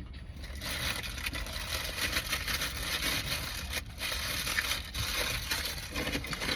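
Close-miked crunching and chewing of crunchy fast food, a dense crackle with a brief break a little before the middle.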